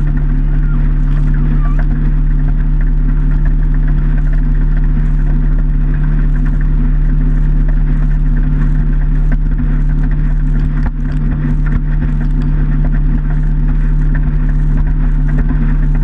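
Motorboat engine running steadily at cruising speed, a constant deep drone with a hiss of wind and water over it.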